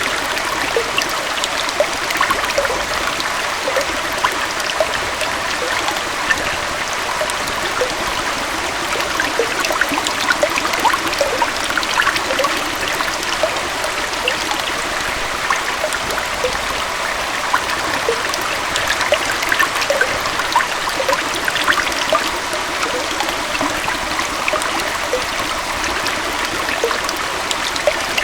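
Small waterfall and stream flowing steadily, an even rush of water dotted with many small splashes and droplet plinks.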